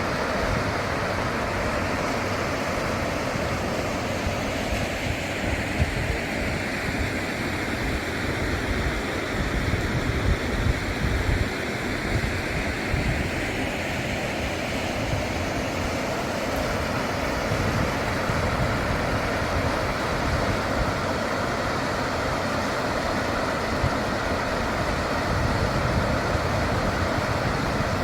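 A car driving on a road: steady tyre and road noise with a low rumble.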